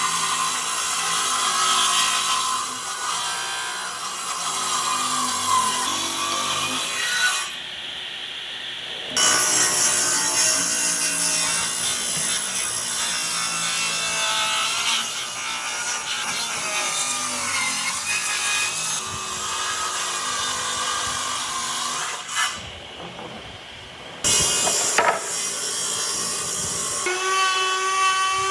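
Wood being worked with tools: a continuous rasping, sawing sound, broken twice by short quieter spells, with a motor whine that rises and falls in pitch near the end.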